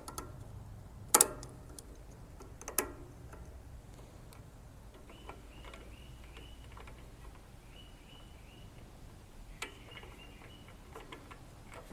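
Tools and small metal engine parts being handled: two sharp clinks about a second and three seconds in, then a few lighter clicks near the end. Faint short high chirps come in small runs midway.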